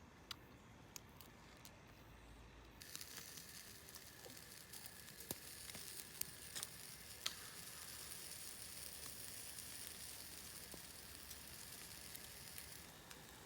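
Meat sizzling over a wood fire, a dense hiss with scattered sharp pops and crackles. It starts abruptly about three seconds in, after a quieter stretch of faint ticks, and eases slightly near the end.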